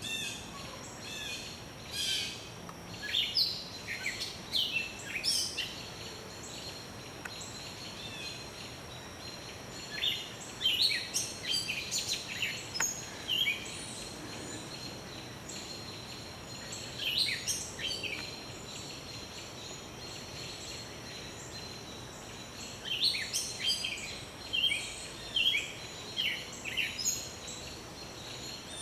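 Songbirds singing in the woods at dusk: bursts of short chirping phrases with pauses of several seconds between them, over a faint steady high-pitched tone.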